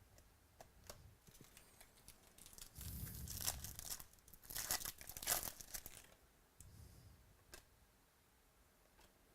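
A trading-card pack wrapper being torn open and crinkled, in a cluster of crackling tears in the middle, with a few light clicks of cards being handled before and after.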